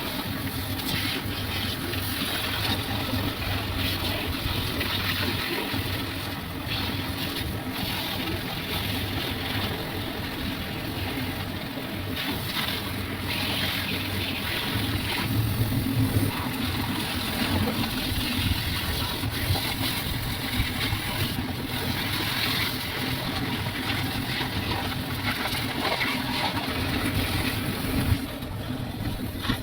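Pressure washer running: a steady motor hum under the continuous hiss of the water spray.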